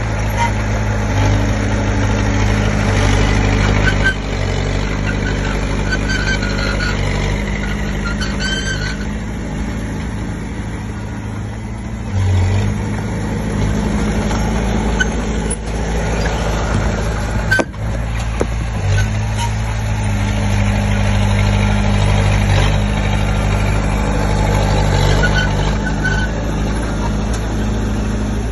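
Diesel engine of a Komatsu D20P crawler bulldozer running steadily at work, its note shifting a few times as the load and throttle change.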